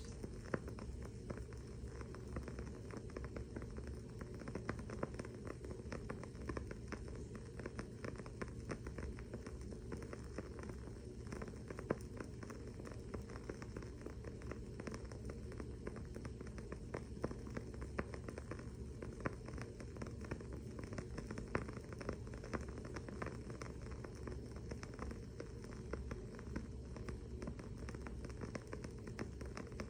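Wooden-wick candle crackling: a steady stream of small, irregular pops and clicks, several a second, with the odd louder snap.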